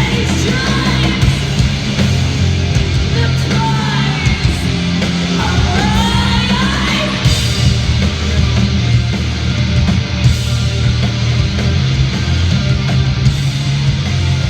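Live punk rock band playing loud in an arena, with a yelled vocal line over roughly the first half.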